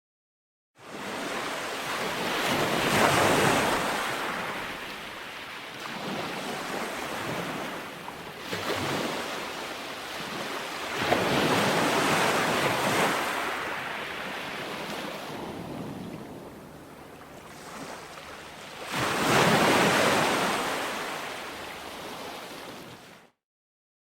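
Ocean waves rolling onto a shore: surf washes in and drains back in three big surges, loudest about three, twelve and twenty seconds in. It starts after a moment of silence and cuts off suddenly shortly before the end.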